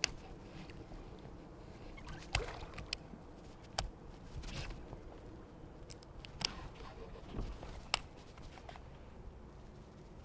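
Sporadic light knocks and clicks against a fishing kayak, about half a dozen spread apart, over a faint background of water sloshing.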